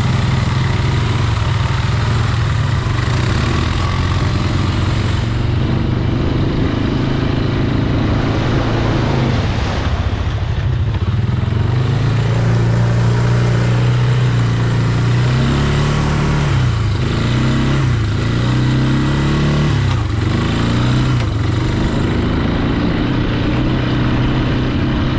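Off-road vehicle's engine running under way, its pitch rising and falling with the throttle, most noticeably in the middle and latter part.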